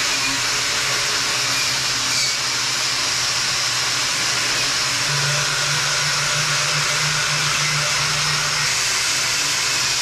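Power tool with a wire wheel running steadily, brushing the truck's flatbed down to bare metal to prep it for paint: a continuous loud hiss over a motor hum, heavier for a few seconds in the middle.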